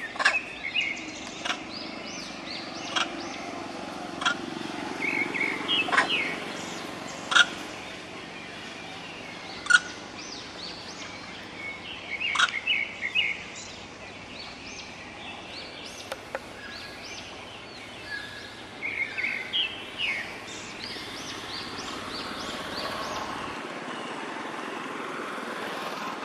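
Wild birds calling in forest: sharp single notes every second or two, and now and then a short run of quick rising chirps.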